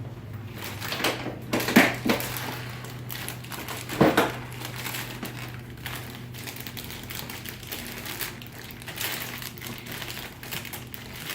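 Plastic snack packaging crinkling and crackling as it is handled and opened, in irregular bursts, the sharpest about two and four seconds in. A low steady hum runs underneath.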